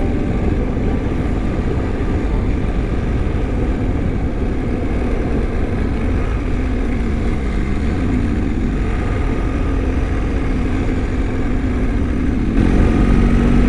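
BMW R1250 boxer-twin motorcycle running steadily on the move, its engine rumble mixed with wind and road noise. It grows louder near the end.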